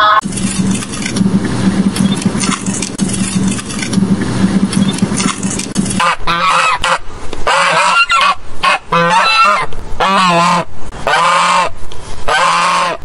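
Domestic goose honking repeatedly, about one call a second, starting about six seconds in, some calls drawn out and wavering. Before that, a steady low hum with hiss.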